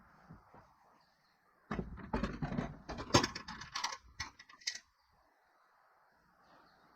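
A run of clattering knocks and rattles lasting about three seconds, starting about two seconds in, with a sharp loudest knock near the middle; no saw engine is running.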